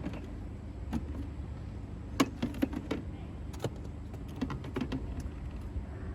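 Sharp plastic knocks and clacks from a plastic bucket being opened and rummaged through, with bottles of car-care products lifted out, loudest a little over two seconds in, over a low steady rumble.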